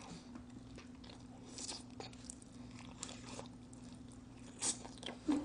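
Close-miked eating of smoked chicken: faint biting, chewing and mouth clicks, with a few louder crunches near the end. A steady low hum runs underneath.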